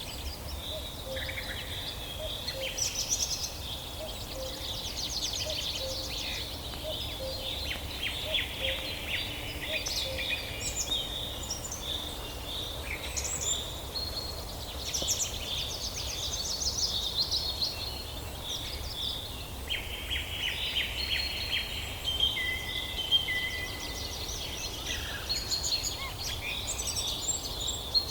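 Several songbirds singing at once in a forest dawn chorus: overlapping chirps, rapid trills and whistled notes, over a steady low rumble.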